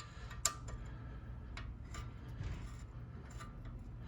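A few light, scattered metallic clicks from tools and brake parts being handled, over a low steady hum.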